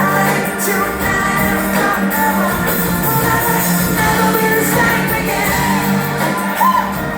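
Live pop song played through a concert sound system, with a woman singing the lead over a band and a steady low bass note.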